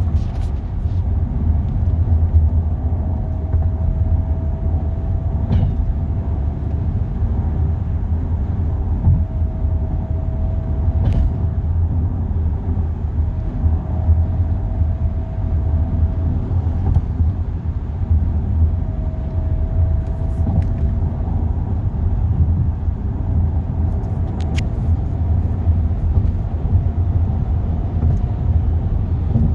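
Audi A4 Allroad at highway speed: steady low road and drivetrain rumble with a faint whirring tone that comes and goes about five times, a few seconds each. The whir follows road speed rather than engine rpm and stops when the accelerator is released, which the owner suspects points to the transmission or the power steering pump.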